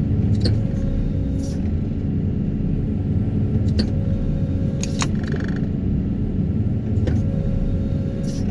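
Excavator carrying a hydraulic vibratory pile hammer, running steadily with a low rumble as heard from the cab. There are several sharp clicks, each followed by a short steady tone lasting about a second.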